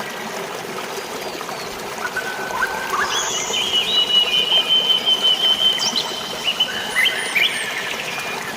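Flowing water running steadily under birdsong. Several birds call, and one gives a long, rapid trill from about three seconds in until about seven seconds in.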